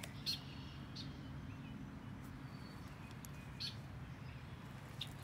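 A bird giving a few short chirps at irregular intervals, over a low steady background rumble.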